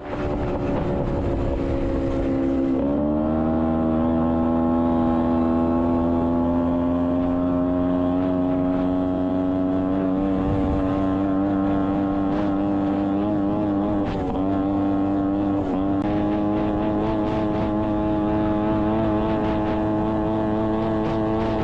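1982 Honda Odyssey FL250's freshly rebuilt two-stroke engine running under load on a test drive. Its pitch falls at first, jumps up about three seconds in and then climbs slowly as speed builds, with two brief dips near the middle.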